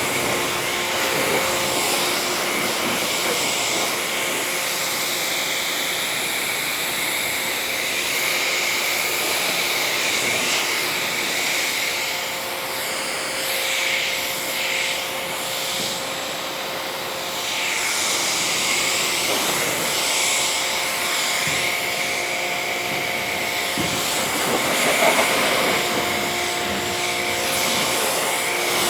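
Pressure washer spraying water to rinse soap off a car's paint: a steady hiss of spray with a faint motor whine, changing as the jet sweeps across the panels.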